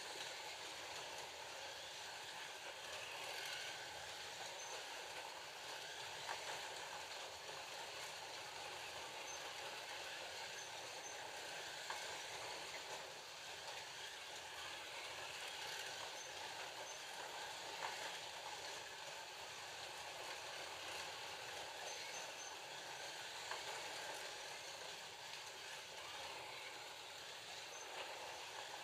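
FLY Classic 1:32 slot cars with 19K motors running laps on the track: a steady whir of small electric motors and cars on the slot, with a few light clicks.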